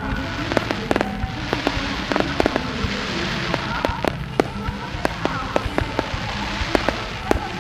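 Fireworks display: shells bursting in rapid, irregular bangs and crackles, several a second, over a continuous low rumble.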